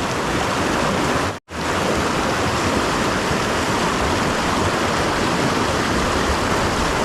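Fast-flowing mountain creek rushing steadily, with a momentary dropout to silence about one and a half seconds in.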